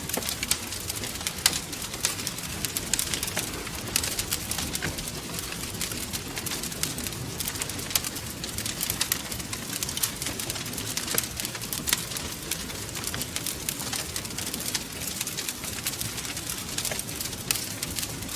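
Wood fire crackling, with frequent small irregular pops and snaps over a steady low rumble of the flames.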